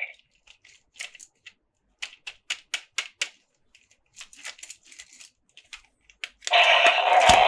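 Light, irregular clicks and taps of hands handling small plastic toys, a few per second. About six and a half seconds in, a louder steady rushing sound starts, with a dull thump near the end.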